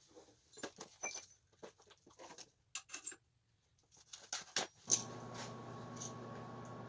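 Light clinks and rattles of metal parts and tools being handled, then about five seconds in a sharp click and a steady electrical hum with fan hiss starts: a welder switched on, ready for tack welding.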